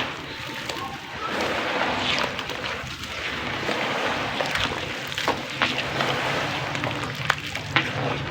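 Crumbly chunks of dry clay or sand-cement breaking up in water: a steady crackling fizz with scattered sharp clicks.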